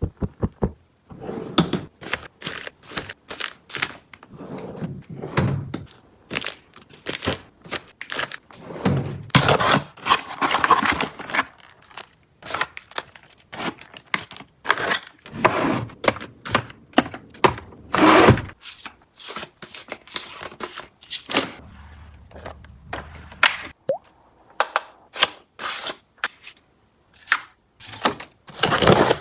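Household items being unpacked and put away by hand: a run of knocks and clacks as things are set down, with scraping and packaging rustle in between.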